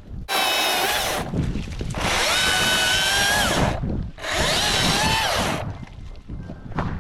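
Milwaukee top-handle battery chainsaw run in three bursts of one to two seconds each. Its electric motor gives a high whine that drops in pitch as each burst ends.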